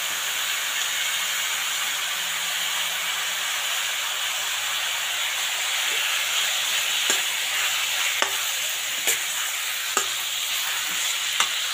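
Pieces of cow's feet meat frying in a kadai with a steady sizzle as a metal spatula stirs them. Through the second half, the spatula clinks sharply against the pan about six times.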